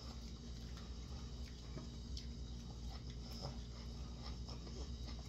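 Close-up eating sounds of noodles being chewed, with many small, irregular wet clicks, over a steady low hum.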